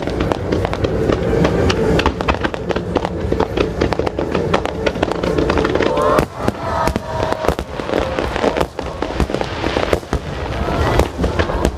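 Aerial fireworks bursting in rapid, overlapping succession, many bangs and crackles a second without a break.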